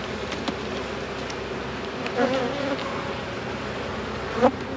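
Honeybees buzzing around an open hive, with a few faint clicks. A single bee's buzz wavers close by about two seconds in, and a short, louder sound comes near the end.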